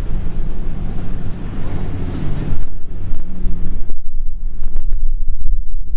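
Motorboat engine running with water rushing past the hull, its rush falling away about two and a half seconds in. Heavy wind buffeting on the microphone then takes over as a low rumble with scattered thumps.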